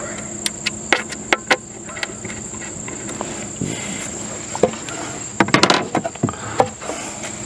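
Small clicks and rattles of wire connectors being pushed back onto an RV furnace's new sail switch, with a quick cluster of sharper clicks about five and a half seconds in. Under them is a steady high-pitched insect trill.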